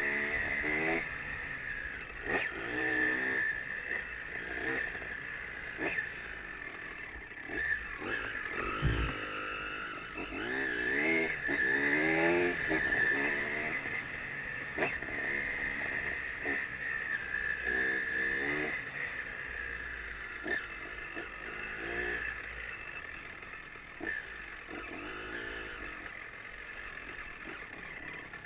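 Off-road motorcycle engine revving up and down over and over while riding a trail, with a steady high hiss underneath and occasional knocks.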